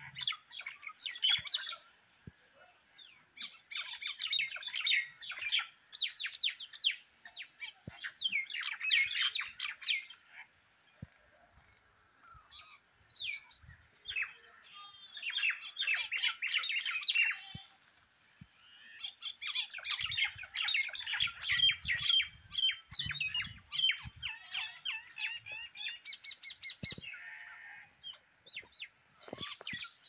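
Several birds squabbling, giving rapid, harsh chattering and squawking calls in repeated bouts of a second or two with short pauses between them. These are the aggressive calls of birds fighting on the ground.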